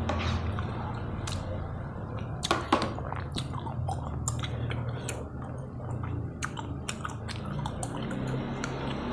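Close-miked chewing of tteokbokki in thick chili sauce: wet smacks and short sharp clicks from the mouth, over a steady low hum.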